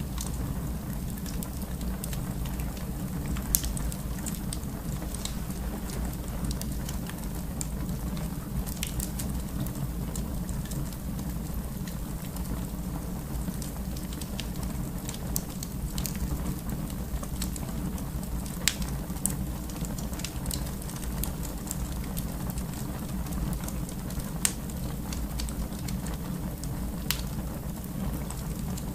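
Fire burning in a fireplace: a steady low noise under scattered sharp crackles and pops.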